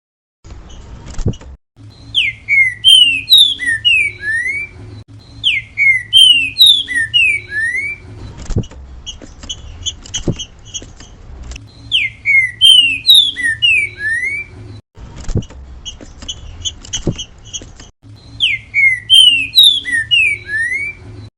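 Green-winged saltator (trinca-ferro) singing its 'grego mole boi' song, a short phrase of loud slurred whistles delivered four times with pauses between. A few sharp clicks fall in the gaps.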